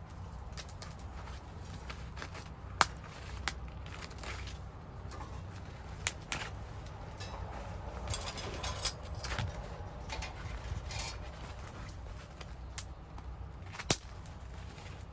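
Wood fire burning in a secondary-combustion fire pit, with irregular sharp cracks and pops from the burning firewood over a steady low rumble of the flames.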